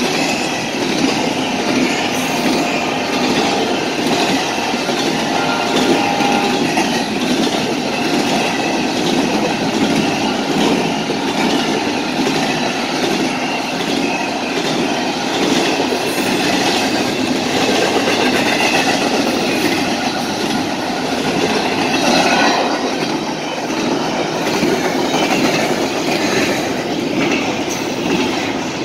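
Freight train of empty BNSF intermodal flatcars rolling past, steel wheels clattering on the rails in a steady, loud run of noise.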